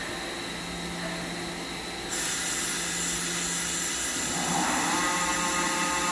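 Spindle of a 2003 Mazak FH-6000 horizontal machining center starting up: the machine's hiss steps up about two seconds in, then a rising whine settles into a steady whine as the spindle reaches speed.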